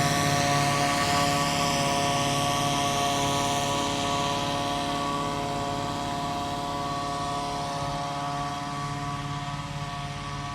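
Mosquito-spraying truck pulling away, a steady droning whine with several held tones that slowly fades as it goes.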